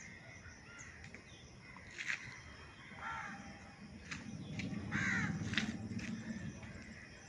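Bird calls outdoors: one call about three seconds in and a run of calls around five seconds, with several sharp clicks in between.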